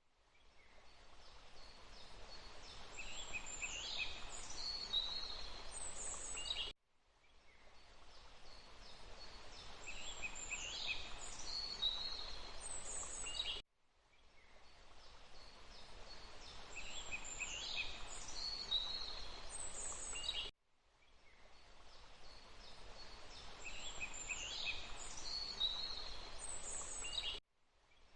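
A short loop of forest ambience: a steady rushing noise like running water, with birds giving a few descending chirps and calls. The loop cuts to silence and fades back in about every seven seconds, four times over.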